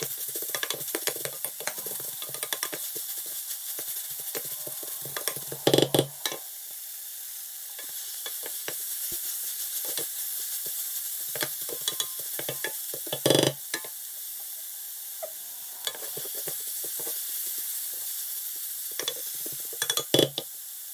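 Onions and garlic frying in hot oil in a large stainless steel pot, sizzling steadily while a wooden spoon stirs and scrapes through them. A few louder knocks of the spoon against the pot come about six seconds in, about thirteen seconds in and near the end.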